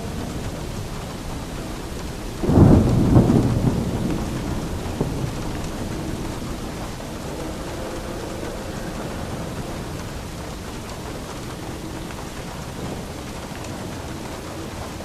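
Steady rain falling, with a clap of thunder about two and a half seconds in that rumbles away over several seconds.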